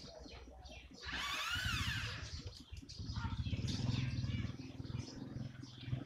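Small birds chirping in short calls over the low drone of a running engine, which gets louder about a second in, with one loud call that rises and then falls just after that.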